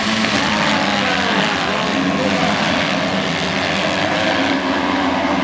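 A pack of motocross bikes, a mix of 125 cc two-strokes and 250 cc four-strokes, revving hard as the field launches off the start. Many engines overlap, their pitches rising and falling as the riders accelerate and shift.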